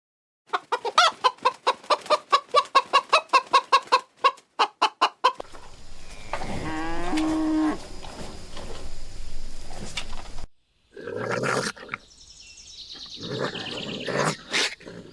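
Chickens clucking: a rapid run of short calls, about five a second, then a longer wavering call and more loud, higher squawks near the end.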